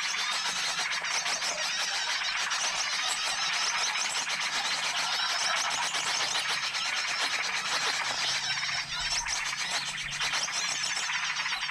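Bird-lure recording of many small songbirds chirping and calling at once: a dense, continuous, high-pitched chorus with no pauses. A faint low hum runs underneath.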